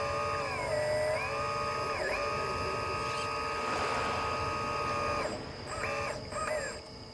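Hydraulic pump motor of a LESU PC360 RC excavator whining. Its pitch dips and recovers as the load changes, then it stops about five seconds in, followed by two short whines.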